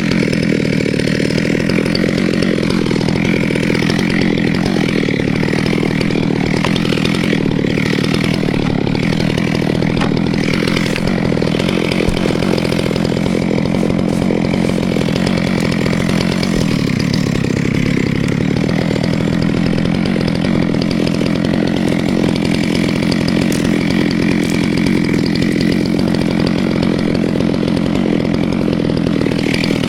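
Two-stroke chainsaw running steadily at high speed, cutting wood with no letup.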